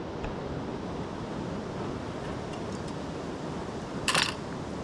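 Steady rain falling, a constant even hiss. About four seconds in, a brief rustle.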